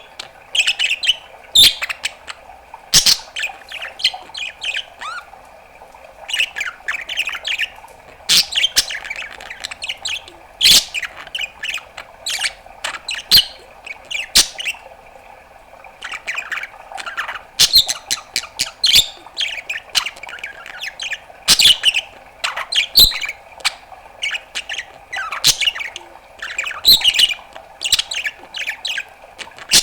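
Budgerigar chattering in irregular bursts of squawks, chirps and sharp clicks and pops, over a steady background hum.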